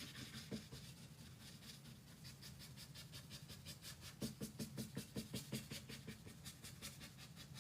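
Quick back-and-forth strokes blending paint on a pine wood panel, a faint rhythmic scratching that grows busier about two seconds in and is strongest near the middle.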